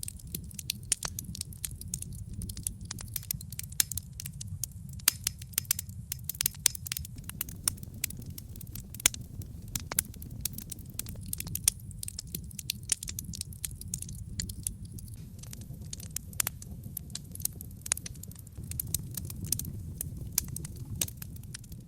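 Wood logs burning in a brick fireplace: a steady low rumble of flame with dense, irregular crackles and pops.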